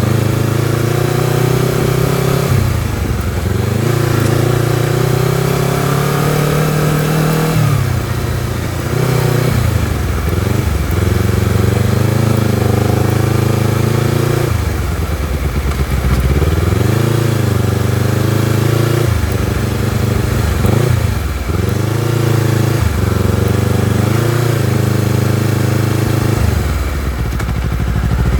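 Honda CBR250RR's parallel-twin engine and exhaust running under way, held at steady revs between short dips where the note falls away and then picks up again, about seven times.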